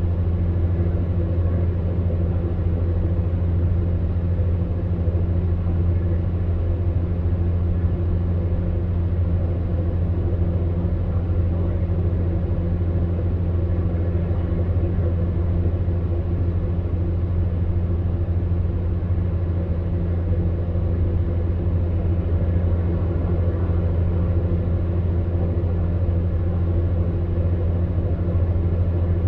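Electric fan heater running: a steady, monotonous low hum from its motor with the even rush of blown air over it.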